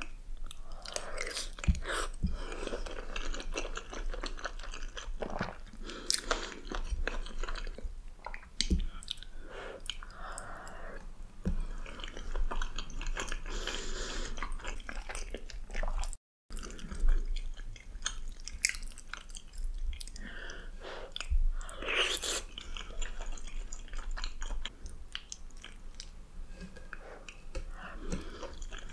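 Close-miked chewing of soft, cheesy baked pasta, with irregular wet mouth clicks and smacks. The sound cuts out for a split second about sixteen seconds in.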